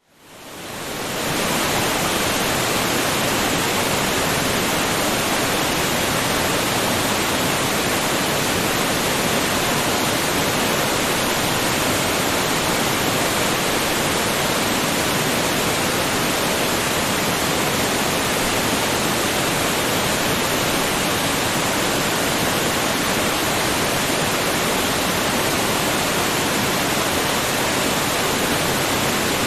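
Waterfall: a steady, even rush of falling water, fading in from silence over the first second or two.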